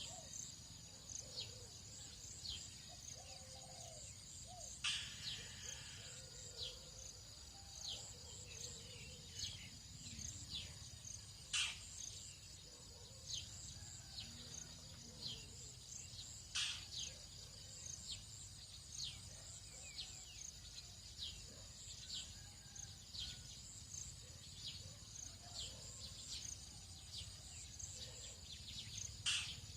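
Tropical dawn chorus: a steady high-pitched insect trill, with short bird chirps about once a second over it. A few louder sharp calls come about five, twelve and seventeen seconds in and again near the end, with faint lower calls further off.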